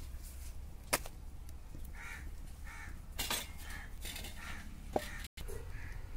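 A bird calling in a series of short calls, several in a row from about two seconds in. A sharp knock about a second in and another near five seconds.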